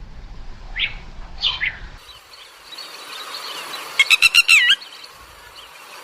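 Bird calls: three short falling squawks in the first two seconds, then, after a change of background, a quick run of about six pitched notes ending in a wavering note about four seconds in.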